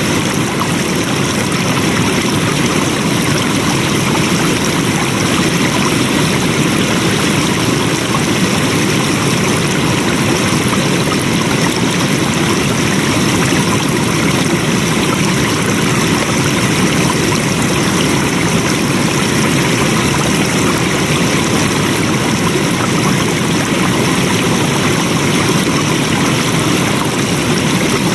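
Flowing water: a stream running steadily over rocks, a loud, even rush without breaks.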